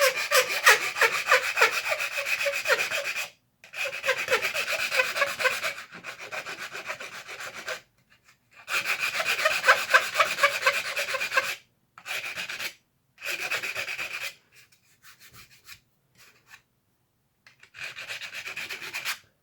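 A small hand file scraping down the plastic of a toy blaster shell in rapid back-and-forth strokes. The strokes come in runs of a few seconds with short pauses between them, and there is a quieter, sparser spell about two-thirds of the way through.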